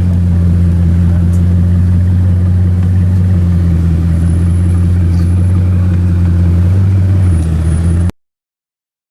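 A car engine running at steady revs with a loud low hum. About seven seconds in it shifts a little lower, then the sound cuts off abruptly just after eight seconds.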